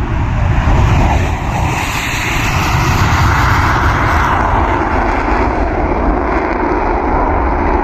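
Su-25 attack aircraft's twin turbojet engines running with a steady, even noise.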